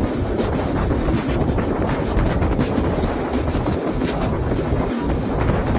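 Indian Railways passenger train running on the track: a steady rumble of the coach with irregular rattles and wheel clicks over the rails.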